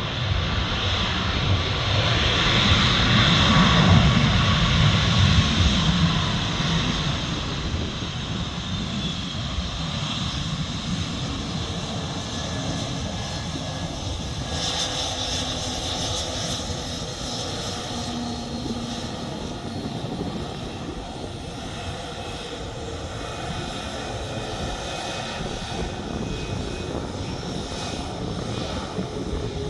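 Airliner's engines heard from the ground, loudest a few seconds in and then fading to a steady lower drone as the plane moves away.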